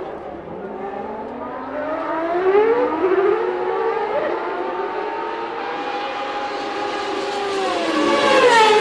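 Formula One cars' 3.5-litre naturally aspirated engines at high revs: a high wailing note with several overlapping engine pitches that climb as the cars accelerate, hold high, then fall sharply near the end as a car passes or brakes.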